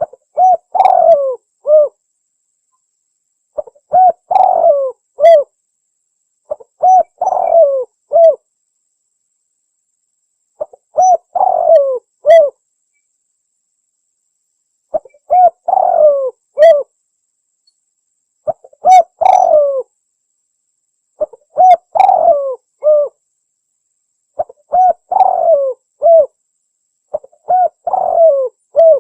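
Spotted dove cooing: a phrase of several short coos, the first hooking upward, repeated nine times about every three seconds with silence between the phrases, as played for a dove-luring call.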